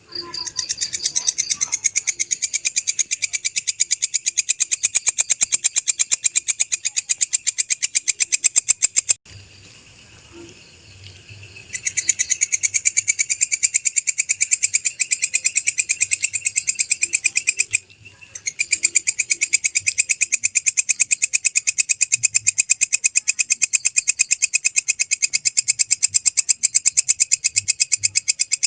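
Walang kecek (belalang kecek) insect calling: a loud, fast, even train of dry, high-pitched chirps. It breaks off for about two and a half seconds about nine seconds in, and again briefly near eighteen seconds.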